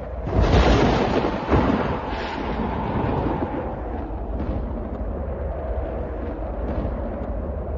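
Thunder: a sudden loud clap about a third of a second in, a second sharp crack a second later, then a long rolling rumble.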